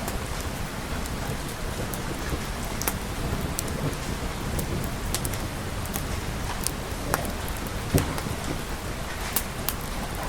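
Steady rain falling, with scattered sharp pops throughout and a louder one about eight seconds in.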